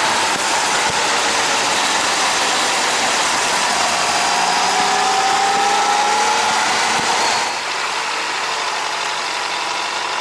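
Honda CBR600RR inline-four motorcycle being ridden, with heavy wind rushing over a helmet-mounted camera. A thin engine tone rises slowly from about four seconds in, and the overall sound eases slightly near the three-quarter mark.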